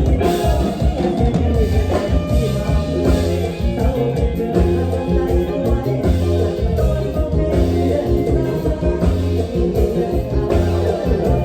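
Live band playing upbeat Isan toei lam music, with a prominent bass line and a steady beat.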